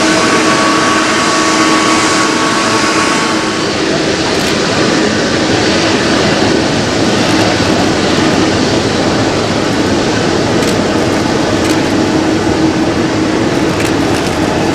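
Jet airliner engines, a loud steady rush with a few steady tones running through it; one higher tone fades out about three seconds in.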